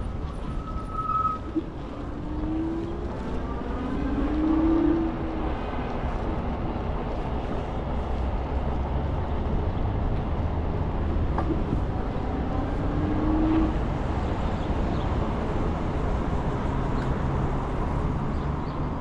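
Steady rumbling ride noise from an Ikingi S6 Pro electric bike under way in traffic, with a few short rising whines.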